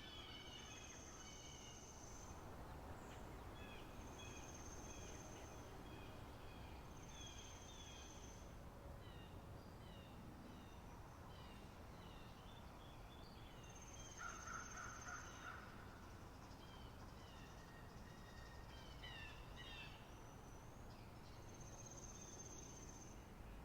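Faint spring meadow birdsong ambience: several birds chirping and twittering together, one repeating a high, thin, held whistle about a second long every few seconds, over a low steady background hush.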